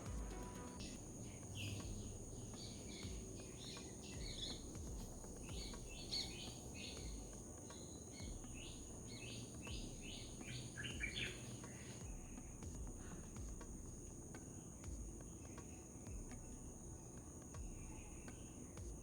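Birds chirping in quick runs for the first ten seconds or so, then falling away, over a steady high insect drone and a low background rumble.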